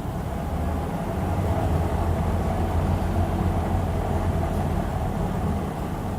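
2006 Hyundai Aerocity 540 city bus running under way: a steady low engine drone with road noise, swelling a little in the middle.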